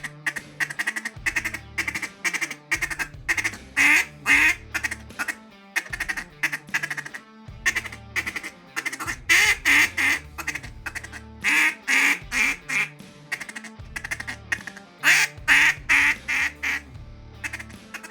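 Hand-blown duck call worked in a fast chuckle, a stream of rapid clucking notes, broken by clusters of louder, longer quacks about 4, 10, 12 and 16 seconds in. It is being blown for volume, and is very loud.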